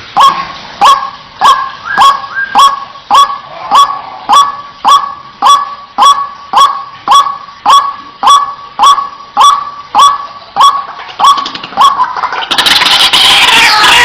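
White-breasted waterhen (ruak-ruak) call repeated at an even pace, a little under two harsh "kwak" notes a second. About twelve seconds in it gives way to a loud, dense clamour of many overlapping calls.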